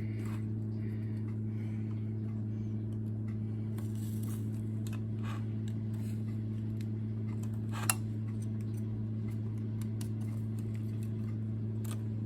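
Steady low electrical hum, with scattered light clicks and taps of kitchen handling and one sharp click about eight seconds in.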